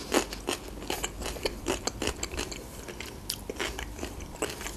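Close-miked chewing of a slice of fresh cucumber: an irregular string of wet crunches and mouth clicks.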